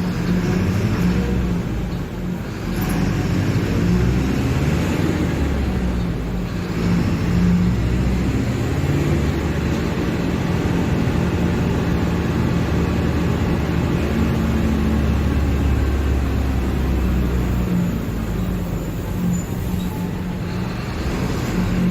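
Diesel engine of a Mercedes-Benz OF-1721 BlueTec 5 bus running, a steady low engine note that rises and dips in pitch a few times.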